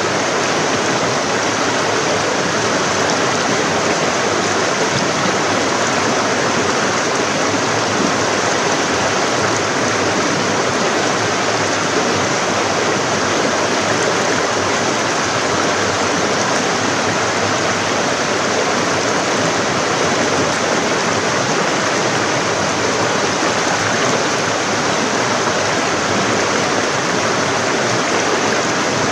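Forest stream running over rocks: a steady rush of flowing water that does not change.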